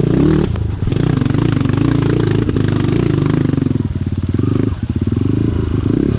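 Off-road motorcycle engine running hard, its revs rising and falling over and over, with brief drops about half a second in and again around four to five seconds.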